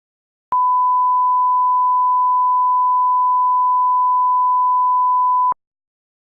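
A single steady pure electronic tone at about 1 kHz, like a test or reference tone. It holds for about five seconds, then cuts off abruptly.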